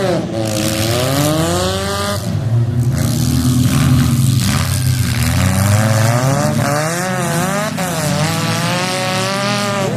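Several demolition derby car engines revving hard at once, their pitch rising and falling over and over.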